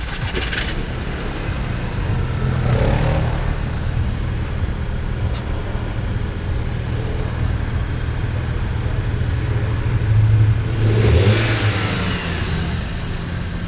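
Audi A3's 2.0-litre turbocharged four-cylinder engine running steadily at idle, getting briefly louder about ten seconds in.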